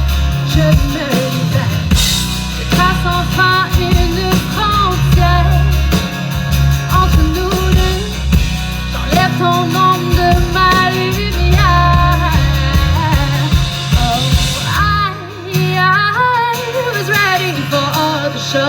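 Live rock band music: a singer's melody line over guitar, bass and drums. The bass and drums drop out for about a second around fifteen seconds in.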